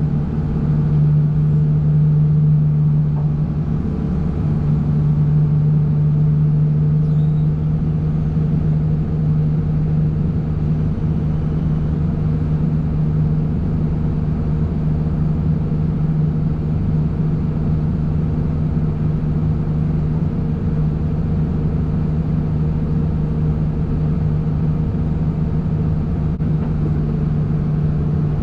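Heavy vehicle engine running at a steady speed: a constant low drone, unchanging in pitch.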